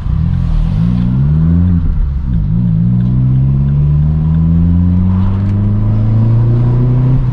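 Vauxhall Corsa D engine through a straight-pipe Hornet exhaust under acceleration. The revs climb, dip briefly about two seconds in, then climb slowly and steadily.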